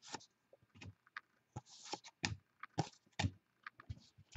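Trading cards being handled and flipped through: irregular light clicks and short rustling slides of card on card.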